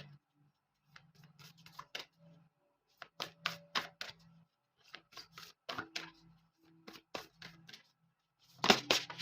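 A deck of tarot cards being shuffled and handled: irregular crisp snaps and flicks of card stock, with a dense flurry of them near the end.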